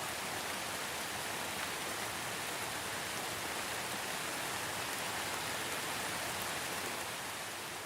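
Steady rain falling, an even hiss of many drops on a surface with faint individual drop ticks, easing slightly near the end.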